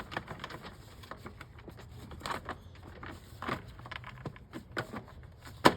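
Irregular clicks, taps and rattles of a plastic engine shroud being fitted over a lawnmower engine by hand, with one sharp, loud click near the end.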